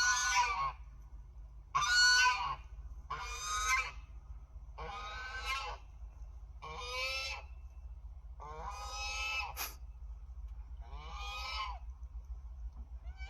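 An animal calling over and over: about eight harsh, honking calls, each under a second long, about one and a half seconds apart.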